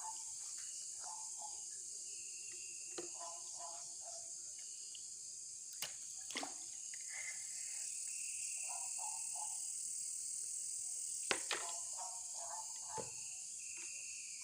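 Night chorus of crickets and other insects: a steady high-pitched drone. Short clusters of calls in a lower register come every few seconds, and there are a few sharp clicks.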